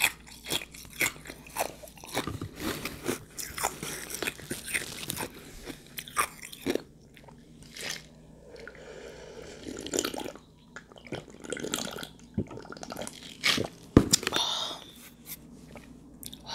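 Close-miked chewing and crunching of ice soaked in juice: many sharp, irregular crunches with wet mouth sounds between them, and one louder crunch near the end.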